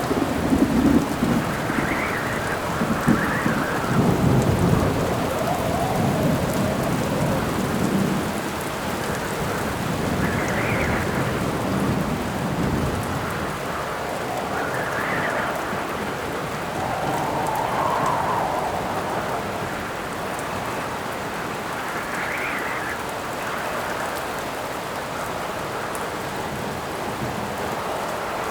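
Steady heavy rain with thunder rumbling, loudest in the first few seconds and dying away about halfway through. Gusts of wind howl and swell, rising and falling every few seconds.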